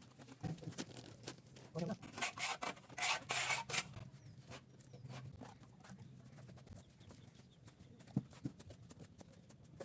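Plastering tool scraping over cement plaster on a wall: a run of short rasping strokes a couple of seconds in, then lighter scrapes and clicks.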